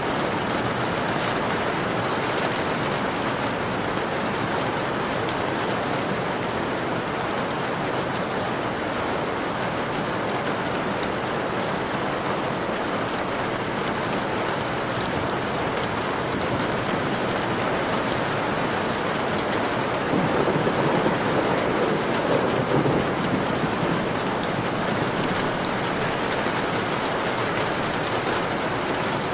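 Steady heavy rain falling on a window, with fine drop ticks against the glass; a low rumble of thunder swells for a few seconds about two-thirds of the way through.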